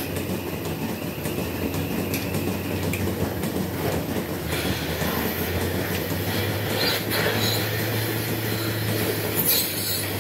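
Dairy milking-shed machinery running steadily: a constant low hum with a rattling, rumbling noise and a few scattered clicks and knocks.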